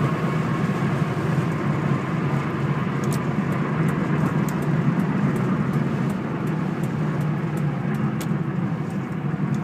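Cabin noise of a 2002 Ford Mustang GT cruising at highway speed: the 4.6-litre V8 and its aftermarket exhaust give a steady low drone, mixed with wind and road noise.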